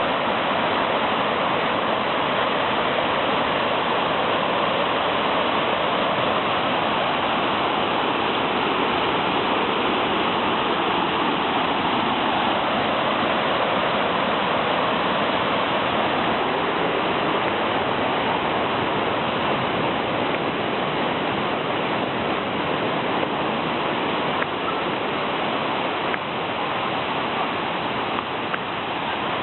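Kuang Si waterfall cascades rushing: a steady, unbroken wash of falling water.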